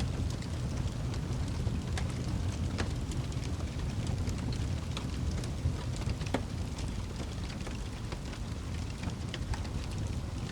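Wood fire crackling: scattered sharp pops and snaps over a steady low roar.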